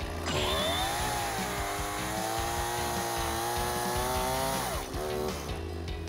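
Chainsaw running at high revs with a steady pitch, cutting wood. The pitch falls away about five seconds in.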